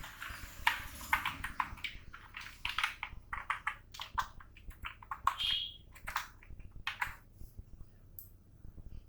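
Computer keyboard typing in quick irregular bursts of keystrokes, thinning out after about seven seconds, with a brief high tone about five and a half seconds in.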